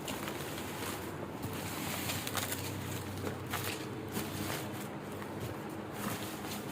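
Rustling and crinkling of parcel packaging being handled and opened, in irregular bursts of crackle.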